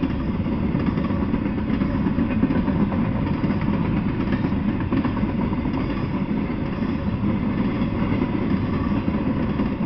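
Double-stack intermodal freight train rolling past: a steady rumble of its well cars' wheels on the rails.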